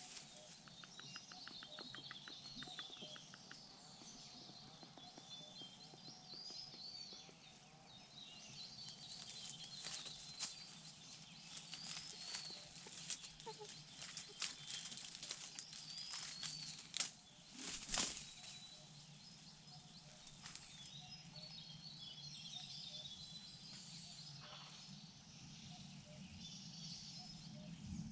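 Faint woodland ambience: small birds chirping in the distance, with a short rapid ticking trill early on and scattered rustles and knocks. Two knocks about two-thirds of the way through are the loudest sounds.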